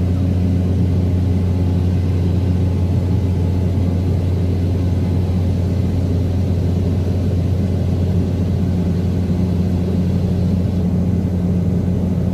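Steady low drone of an airliner's engines heard inside the passenger cabin, even in level throughout.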